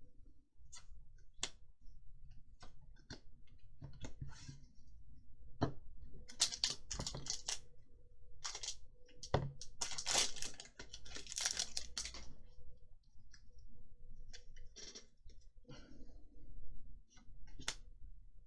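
Trading cards being handled and flipped through by hand: scattered light clicks and card slides, with two longer stretches of rustling, about a third of the way in and again just past halfway.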